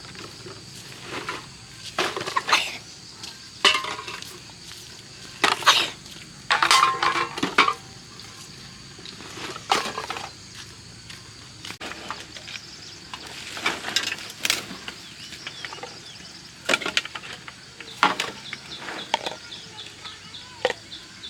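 Irregular clinks and clatters of hard objects, metal among them, being picked up and handled, over a steady high insect drone.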